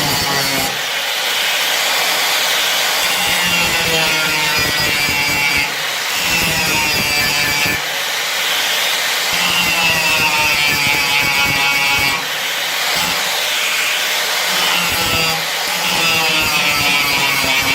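Angle grinder grinding old welds off car body steel, running continuously, its motor pitch sagging as it is pressed into the metal and recovering as it eases off, with brief lifts off the work about 6, 8, 12 and 16 seconds in.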